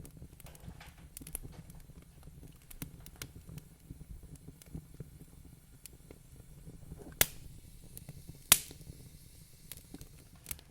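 Wood fire crackling in a fireplace: scattered small clicks with two loud sharp pops, about a second and a half apart, in the second half, over a low steady rumble.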